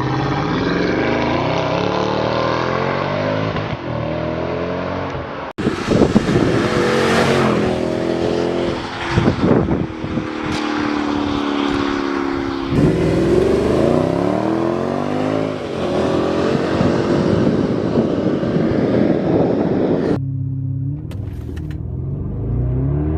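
Mercedes-Benz R63 AMG's 6.2-litre V8 revving and accelerating in several short clips, its pitch rising and falling, with abrupt cuts between clips about 5.5, 13 and 20 seconds in. Near the end it runs more steadily at a low note.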